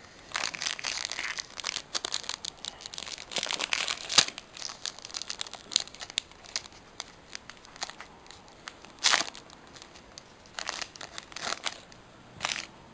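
Foil Pokémon booster pack wrapper being torn open and crinkled, with cards handled and flicked through: a dense run of crackling and tearing for the first few seconds, then scattered sharp crinkles and clicks.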